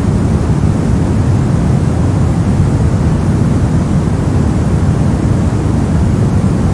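Steady, unbroken generated white noise, a deep even rush with most of its weight in the low range.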